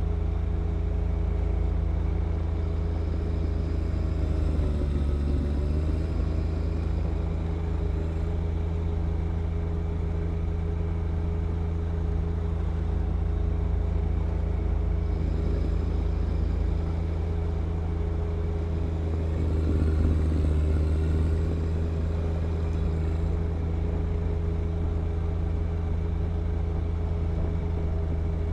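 John Deere 1025R compact tractor's three-cylinder diesel running steadily while working a snow blower through wet snow. Its pitch dips briefly about five seconds in and again, less, around twenty seconds, as the engine pulls down under load and recovers.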